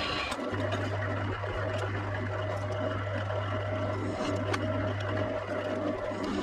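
A steady low machine hum with a few light clicks and taps; the hum dips out briefly twice.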